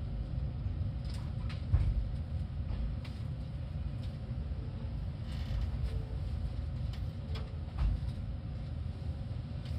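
Inside a Seibu 10000 series 'Red Arrow Classic' limited express car: a low, steady rumble with a few soft knocks and clicks and a brief hiss about halfway through.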